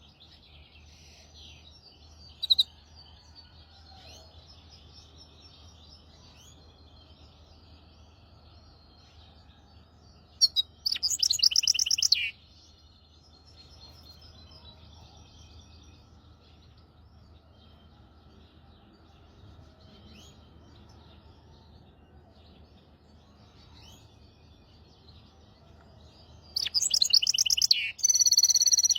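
Hybrid goldfinch × canary mule singing: soft, continuous high twittering, broken by loud ringing song phrases, one brief about two and a half seconds in, a longer one around eleven seconds, and another starting near the end.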